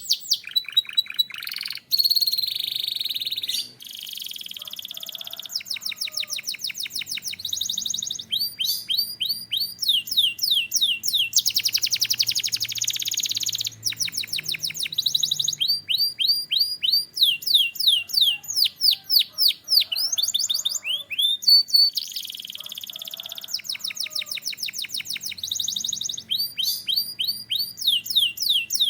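Canary singing a long continuous song of rapid repeated trills and rolling phrases, each phrase a quick run of sweeping high notes that switches to a new pattern every second or two.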